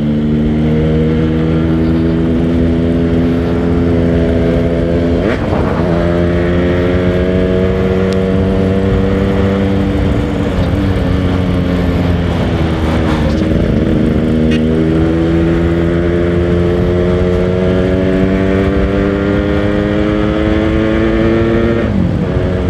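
Yamaha RX King 135cc two-stroke motorcycle engine under way, its pitch climbing slowly as it pulls through the gears, with short dips about five seconds in, twice between ten and fourteen seconds, and a drop near the end.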